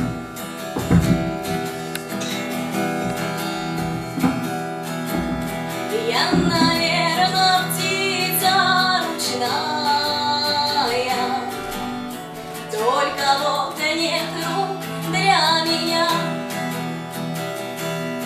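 Instrumental intro of a song: an acoustic guitar plucked and strummed over held low notes. A gliding high melody line comes in about six seconds in and returns a little before the halfway point of the second stretch.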